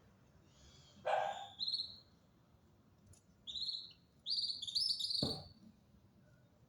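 Songbird singing short phrases of clear, high whistled notes, three bursts over a few seconds. A harsher sound comes about a second in, and a short low thump just after five seconds.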